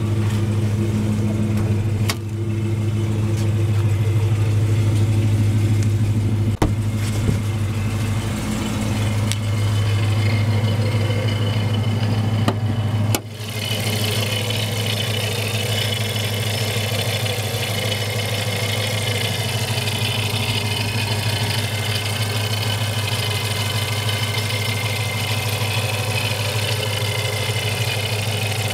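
ProCharger-supercharged 5.7 L Hemi V8 of a Dodge Challenger R/T idling steadily. About 13 seconds in, the sound changes abruptly: the low idle note thins and a steady high whine from the engine bay comes forward.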